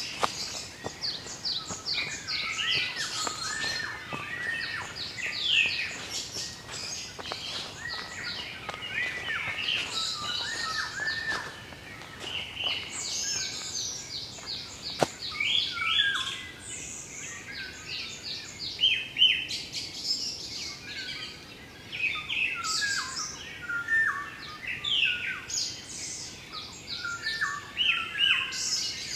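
Several wild songbirds calling and singing at once: a dense chorus of quick, overlapping chirps and whistled notes at several pitches.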